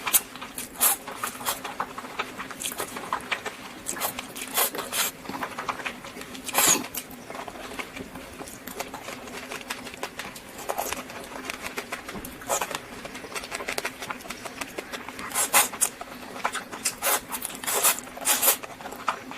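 Close-miked eating: fast, irregular chewing and crunching with wet mouth clicks, several sharper crunches standing out, over a faint steady hum.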